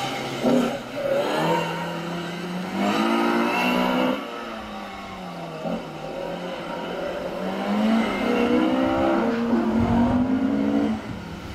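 Opel Kadett C slalom car's engine revving hard, its pitch climbing in steps as it accelerates. The revs fall away about four seconds in as the driver lifts, climb again to a second peak, and drop off near the end.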